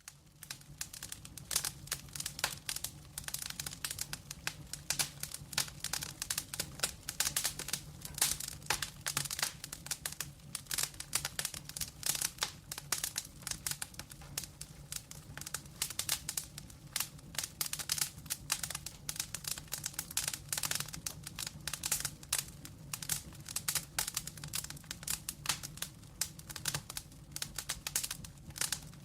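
Wood fire burning in a fireplace, the logs crackling with a dense, irregular run of snaps and pops over a low steady hum.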